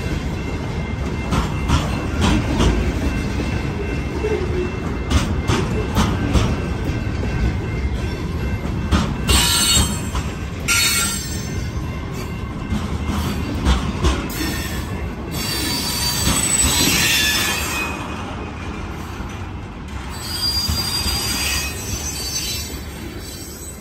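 Freight train of hopper and tank cars rolling past: a steady rumble of wheels on rail with sharp clicks, and high-pitched wheel squeal coming and going from about nine seconds in.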